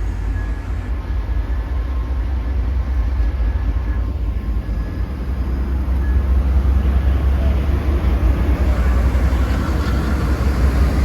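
Amtrak passenger train P041 departing, with a steady low diesel rumble that grows louder about halfway through. Two faint steady high tones are heard in the first half.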